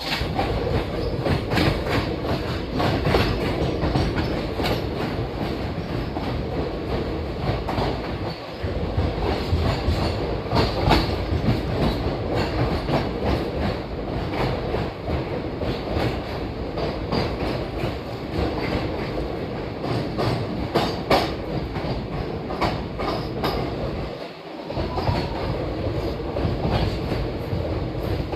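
Train running along the track, with wheels clattering over rail joints over a steady loud rumble. A faint high wheel squeal comes near the end.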